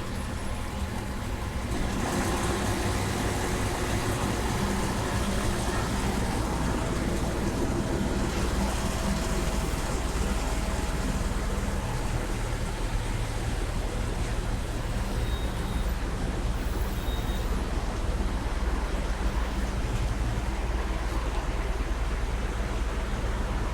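Petrol pump dispensing fuel into a car's tank: a steady rushing hiss over the low hum of the dispenser. It gets louder about two seconds in, as the flow starts, and then holds steady.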